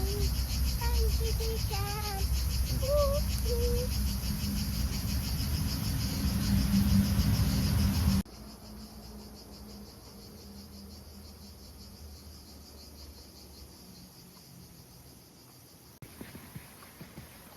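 Insects chirping in a fast, even pulsing trill. A loud low rumble lies under it and cuts off abruptly about eight seconds in, and there are a few short gliding calls in the first four seconds.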